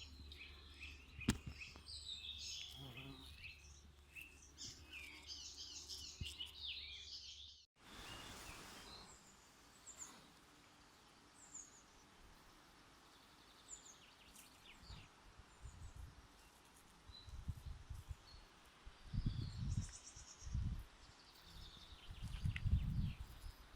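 Songbirds chirping and singing in a dense chorus of high, quick notes; about eight seconds in the sound cuts abruptly, leaving sparser, scattered chirps. In the second half, short low rumbles come and go beneath the chirps, several close together near the end.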